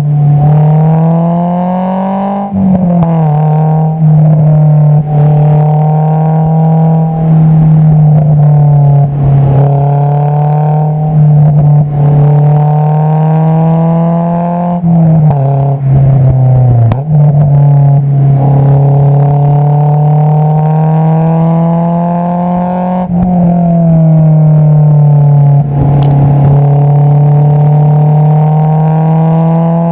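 Honda S2000's 2.2-litre inline-four engine through an Invidia Q300 aftermarket exhaust, heard close at the tailpipe while driving. It pulls steadily up in pitch under acceleration, and the pitch drops sharply at each of about four upshifts.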